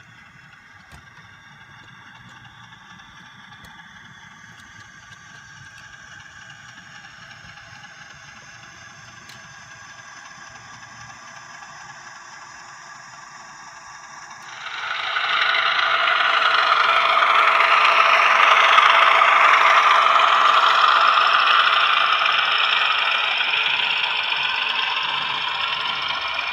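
OO gauge model diesel locomotive running on the layout, a faint steady engine-like hum with slowly shifting pitch. About halfway through the sound jumps sharply louder into a dense rattling clatter of the train running on the track.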